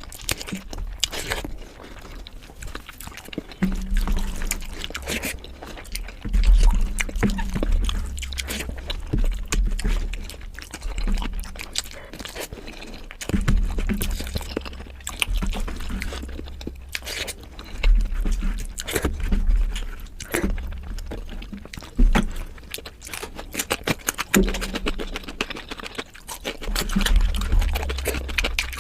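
Close-miked eating: irregular chewing and crunching with wet mouth clicks and repeated low thuds, with no steady rhythm.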